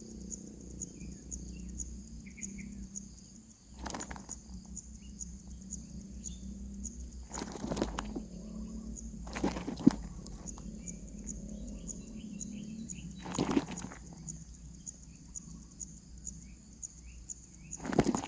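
Nestlings giving a few faint, short chirps, broken by four sharp scuffs or knocks spread through the stretch. Under them run a steady low hum and a high whine with fine ticking.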